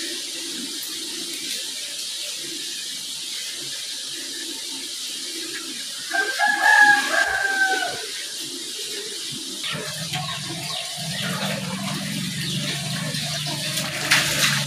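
A rooster crowing once, a single call of about two seconds that falls slightly in pitch at the end, a little after six seconds in, over a steady hiss. A steady low hum starts about ten seconds in.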